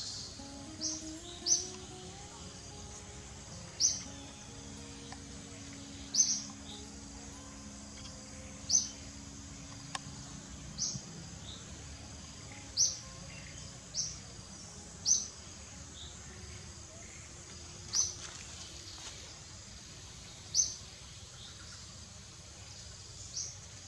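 A bird repeating a single short, high chirp about every two seconds over a steady outdoor hiss.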